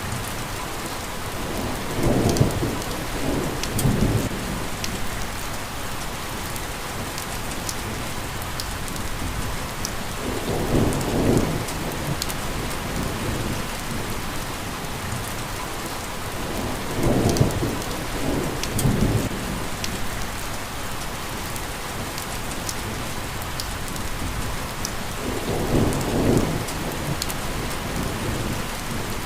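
Steady rain falling, with low rumbles of thunder swelling and fading four times.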